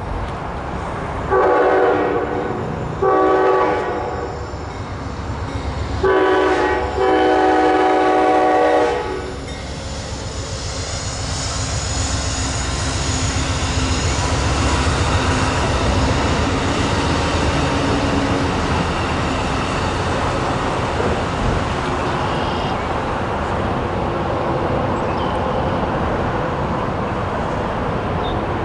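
Amtrak P42DC diesel locomotive's air horn sounding the grade-crossing signal: two long blasts, a short one and a final long one. It is followed by the train passing with a steady rumble of wheels on rail.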